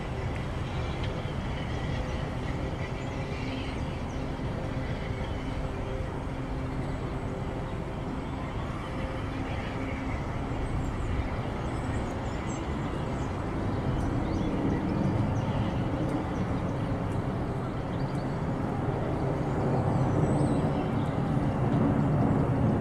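Steam-hauled heritage passenger train passing, the coaches rolling by, with the diesel locomotive on the rear of the push-pull set going past in the second half, its engine running; the sound grows louder towards the end.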